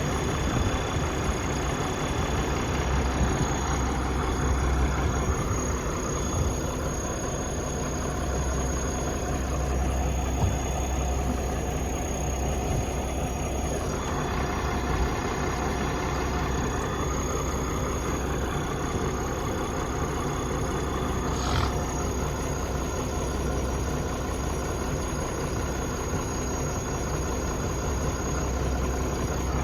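Large diesel engine running steadily at idle, a deep even hum with mechanical clatter over it and one brief tick about two-thirds of the way through.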